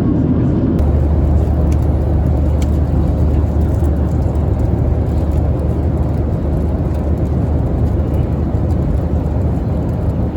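Steady cabin noise of a Boeing 737-700 in flight, heard from an economy window seat: the CFM56-7B engines and the airflow making an even, loud rumble with a deep low hum.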